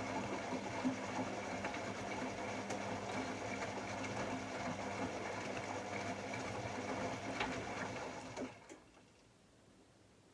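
AEG Electrolux Lavamat L74810 washing machine running: a steady motor hum with scattered clicks and rattles, which winds down and stops about eight and a half seconds in.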